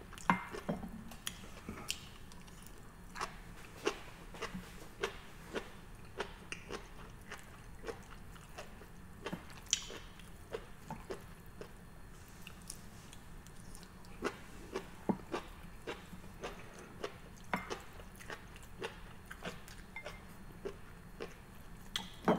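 A person chewing seaweed salad close to the microphone: a steady run of short, irregular wet clicks and crackles from the mouth.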